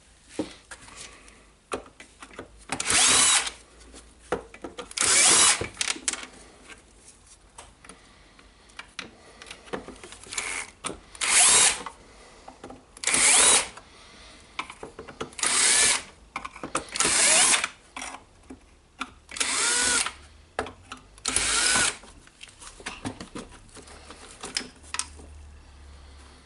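Electric drill-driver motor run in about nine short bursts, its whine rising and falling in pitch within each, backing screws out of the radio's housing, with light handling noise between bursts.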